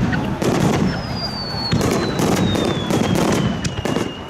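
Aerial fireworks bursting: dense crackling and low booms. A single long whistle starts about a second in and slowly falls in pitch.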